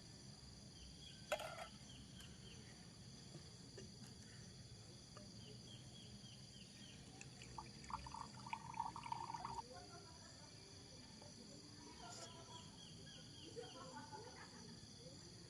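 Faint chorus of insects trilling on steady high notes, with rows of short chirps. There is a sharp click about a second in, and a brief chattering call between eight and nine seconds.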